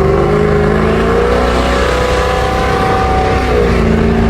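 Pontiac GTO's V8 engine pulling hard under acceleration, its pitch climbing steadily, then dropping as the four-speed automatic shifts up near the end, heard from inside the car.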